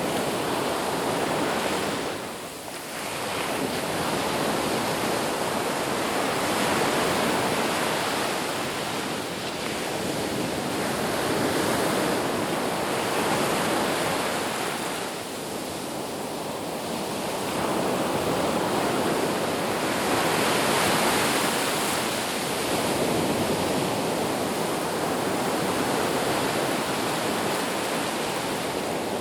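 Ocean surf washing on a beach: a continuous hiss of breaking waves that swells and eases every few seconds.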